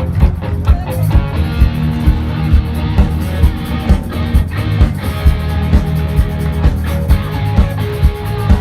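Rock band playing live: guitars over a drum kit, with a heavy kick-drum beat about twice a second.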